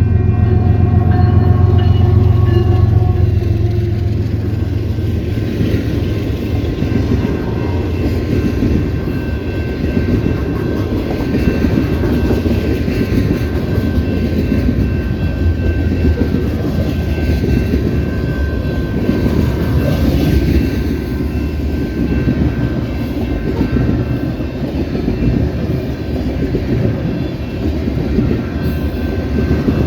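Diesel-hauled freight train departing: pitched horn-like tones and a strong engine hum fade over the first few seconds, then a steady rumble and rattle of freight cars rolling past, with faint steady high squeal tones.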